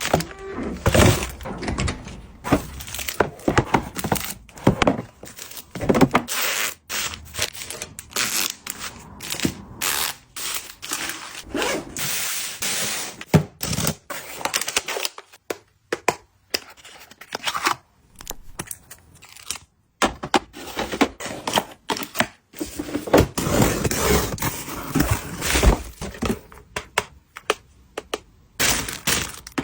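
Packaging and items being handled during an unboxing: irregular knocks, clicks and taps on boxes and hard pieces, mixed with short rustles of paper and plastic wrap, with a couple of brief pauses.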